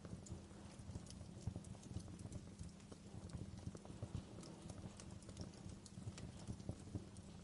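Wood fire crackling in a fireplace: irregular small snaps and pops, some sharp and bright, over a steady low crackling rumble.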